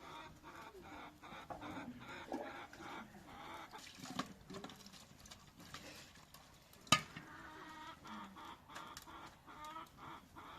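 Chickens clucking, with one sharp knock about two-thirds of the way through.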